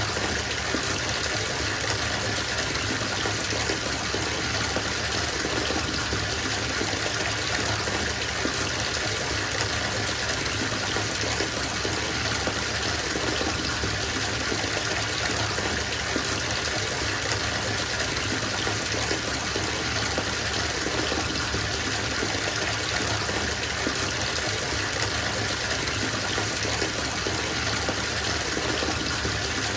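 Bathtub filling from a running tap: a steady, unbroken gush of water pouring into the tub.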